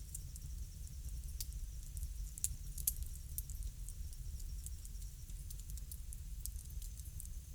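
Bonfire crackling: irregular sharp pops and snaps over a low, steady rumble.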